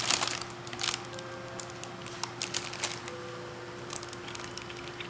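Plastic bag crinkling as a cat licks and chews at it: a loud crinkle at the start, then scattered soft crackles and clicks. A faint steady hum runs underneath.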